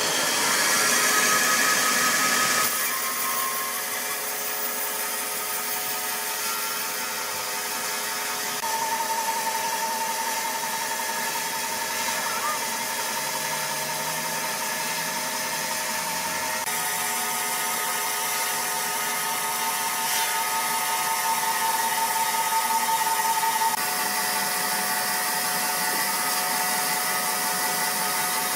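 Sawmill machinery running steadily, a continuous mechanical hiss with held high whining tones, its character changing abruptly three times.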